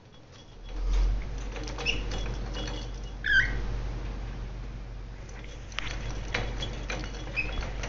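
A pet cockatiel's feet and beak tapping and scratching in quick irregular clicks, with a few short squeaky chirps, the clearest about three seconds in. A low steady hum runs under it from about a second in.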